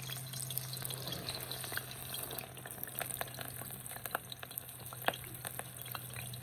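Food frying in hot oil in a pan, a steady sizzle with many quick crackles and pops, under a steady low hum.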